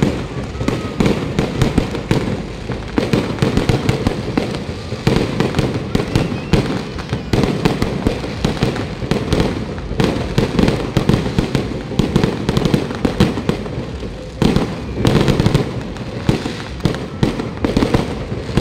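Aerial fireworks going off in a loud, unbroken run of rapid bangs and crackles.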